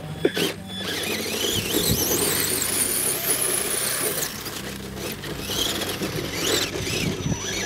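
1/10 scale RC offroad truck's motor whining as it accelerates, the pitch climbing steeply and then holding high before cutting off a little after four seconds in. Shorter whines come again near the end.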